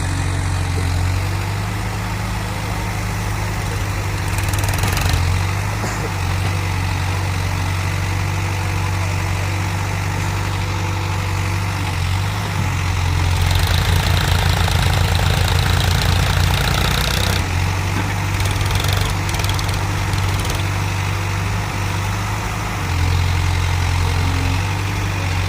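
Heavy diesel engine running steadily near idle, picking up and working harder for a few seconds about halfway through before settling back.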